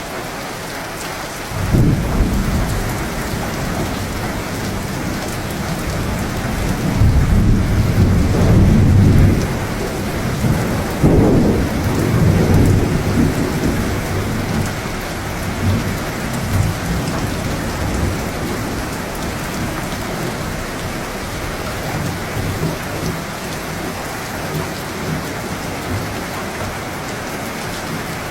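Thunderstorm: steady rain throughout, with thunder that breaks in suddenly about two seconds in, swells into louder rolling rumbles twice in the next ten seconds, then dies away.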